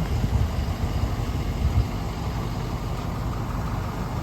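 A 2004 Ford F-150's 4.6-litre Triton V8 gas engine idling with a steady low rumble, with a few louder low bumps in the first two seconds.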